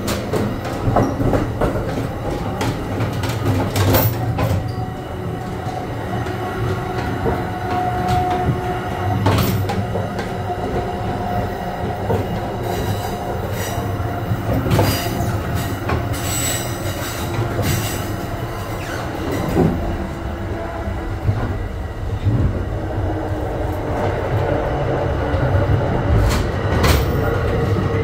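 Bombardier MultiLevel commuter coaches running at speed, heard from the gangway between two carriages: a loud, steady rumble of wheels on rail with repeated clanks and knocks from the car connection. A brief squeal comes about eight seconds in.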